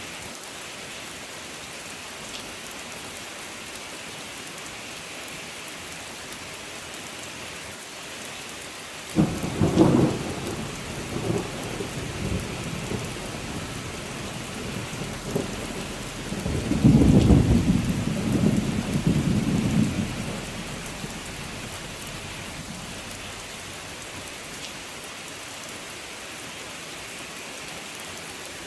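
Steady rain with two rolls of thunder: a sudden clap about a third of the way in that rumbles away over a few seconds, then a longer rumble a little past halfway that fades out.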